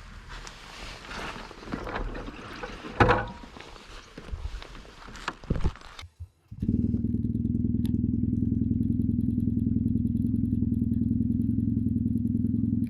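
Rustling and sharp clatter with a loud knock about three seconds in, then, after a brief gap, the 1994 BMW R1100GS's 1085 cc air/oil-cooled boxer twin idling steadily through an R1200GS stainless header and Akrapovic titanium silencer.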